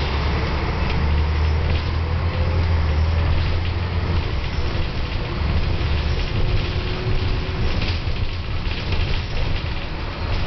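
Volvo B10M Mark II bus on the move, heard from inside the passenger cabin: the underfloor diesel engine and ZF automatic driveline make a steady drone over road noise. The deep engine hum is strongest for the first four seconds or so, then lightens.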